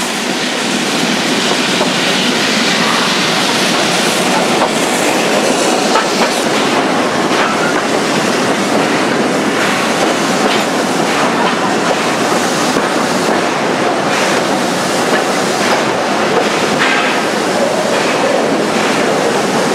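Train carriage rolling slowly along the rails: a steady wheel-on-rail rumble with occasional light clicks, and now and then a brief faint squeal.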